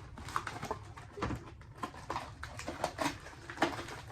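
Irregular small clicks, taps and rustles of plastic toy pieces and Play-Doh containers being handled, over a steady low hum.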